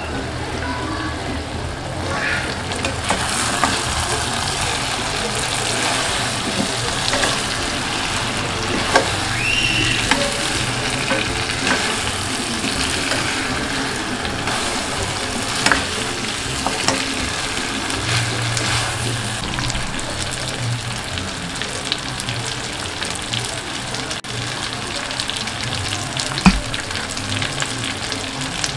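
Pieces of fried duck sizzling in a thick masala in a pan while being stirred and sautéed with a spatula; a steady sizzle with the spatula scraping and knocking against the pan now and then.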